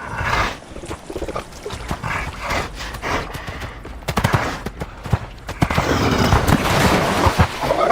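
Polar bear charging across snow and ice: a rapid run of heavy crunching footfalls and cracking, growing louder and denser about halfway through.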